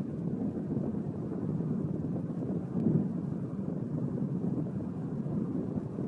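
Kilauea's lava fountain erupting from the Halemaumau vent: a steady low rumble that swells briefly louder about three seconds in.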